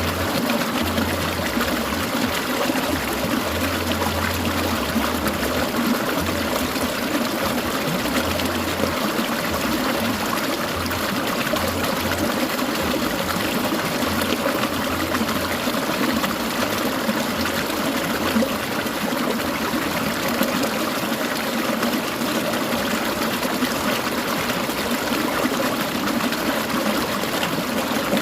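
Clear mountain stream trickling and babbling, a steady, even rush of water.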